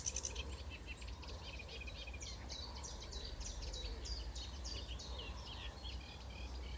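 A reed-bed warbler singing: a fast chattering run of short, varied notes that starts about two seconds in and goes on for about four seconds.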